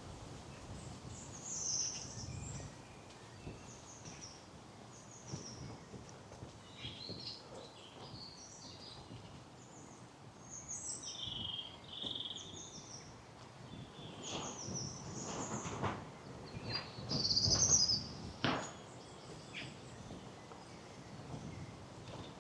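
Woodland songbirds singing and chirping, with short high notes coming on and off from several birds. A few walking footsteps on the path thud under them, louder in the second half.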